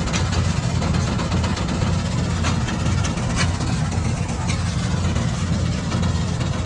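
Combine harvester engine running steadily, with a few sharp clicks over it.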